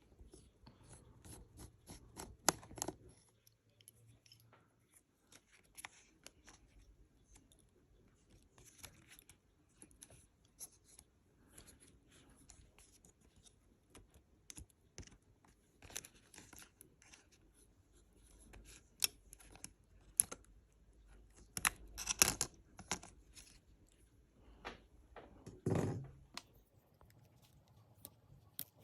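Scattered small clicks, taps and short scrapes of a 2012 MacBook Pro Retina being taken apart by hand, its screws, parts and connectors worked loose with small tools. The loudest stretches of scraping come about three-quarters of the way through.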